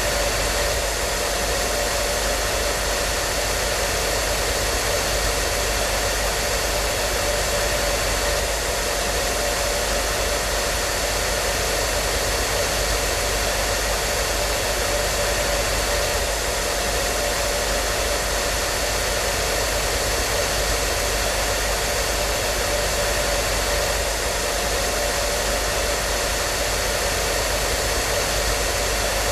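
Hair dryer running steadily: an even, unbroken blowing hiss with a faint constant motor hum.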